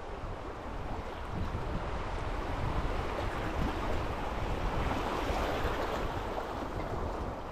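River water rushing, a steady noisy wash that swells a little in the middle, with wind buffeting the microphone.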